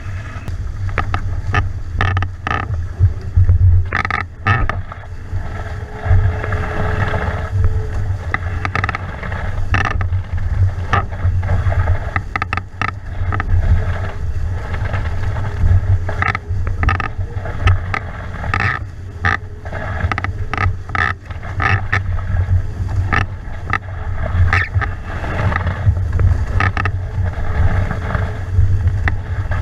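SL16 sailing catamaran moving fast: wind buffeting the microphone over rushing water, with frequent sharp splashes and slaps of water against the hulls.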